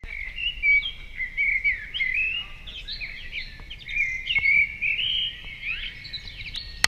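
Songbirds singing, a busy run of overlapping chirps and trills, with a sharp click at the very end.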